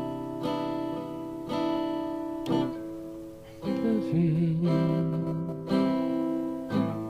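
A guitar strummed through a slow chord sequence, with a new chord struck about once a second and each chord left to ring.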